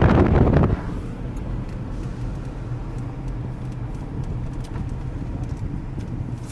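Loud wind buffeting on the microphone that cuts off sharply under a second in, leaving the steady low rumble of a car driving: engine and road noise.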